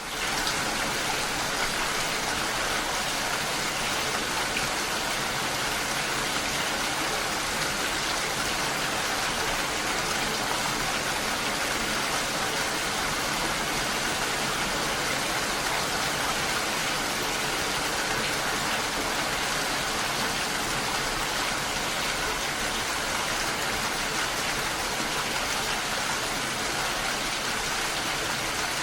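Steady, dense rain falling, an even hiss of water that does not change.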